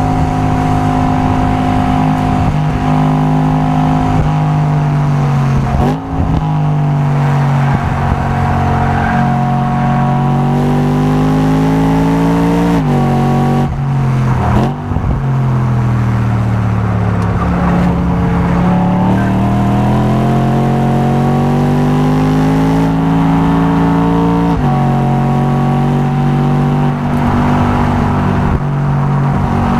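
Race-tuned car engine and exhaust lapping a circuit. The engine note climbs and falls with the throttle, with sudden drops in pitch about six, thirteen and twenty-five seconds in.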